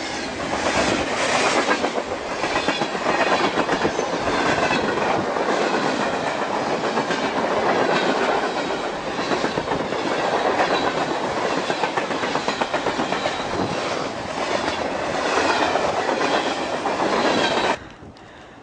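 Freight train of cargo container cars and tank cars rolling past, its wheels clattering over the rail joints. The sound cuts off suddenly near the end.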